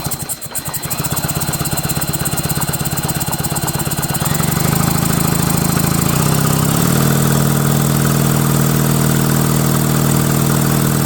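McCulloch 5-10E chainsaw engine spun over by its electric starter without firing, a steady whirring drone with a fast pulse. It settles into a louder, steadier pitch about halfway through.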